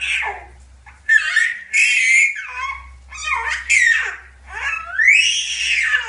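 A young child squealing and shrieking in a string of loud, high-pitched cries that glide up and down, about six in a row with short breaks between them.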